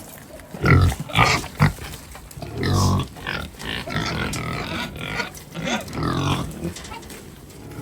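Pigs grunting and squealing, a run of short irregular calls.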